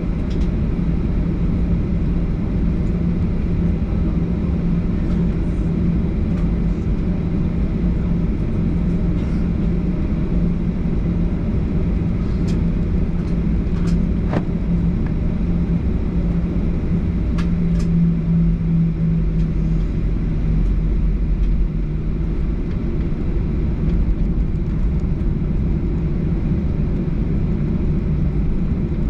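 Cabin noise inside a Boeing 737-800 with its CFM56 engines running at low power: a steady rumble with a constant low hum that fades away about two-thirds of the way through. A few faint clicks are heard in the middle.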